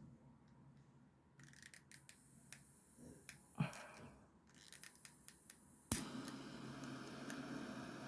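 Windproof storm lighter: a run of sharp clicks as it is worked, then about six seconds in a sudden steady rushing hiss as the jet flame or the fire catches.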